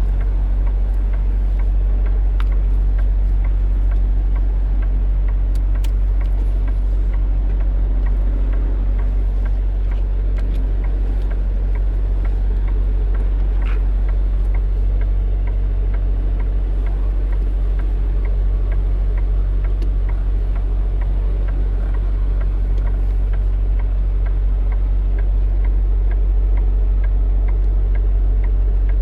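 Semi truck's diesel engine running steadily at low revs while the tractor-trailer is backed into a loading dock: a deep, even drone.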